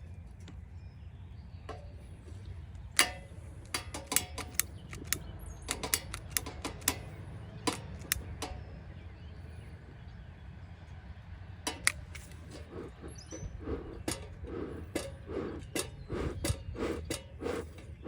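A bee smoker being lit with cedar shavings: scattered sharp clicks and crackles over a low steady hum, coming more often and with soft repeated puffs near the end as the shavings catch.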